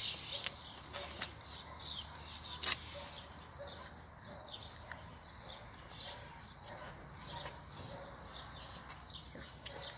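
Small birds chirping repeatedly, with a steady low hum beneath and a few sharp clicks, the loudest a little under three seconds in.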